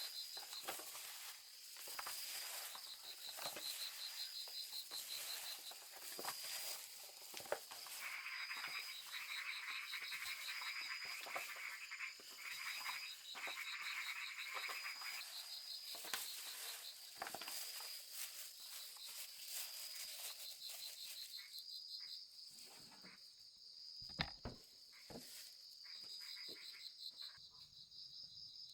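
Frogs and insects calling in chorus after rain: a steady high pulsing trill throughout, with a denser chorus of calls for several seconds in the middle, over scattered rustles and clicks.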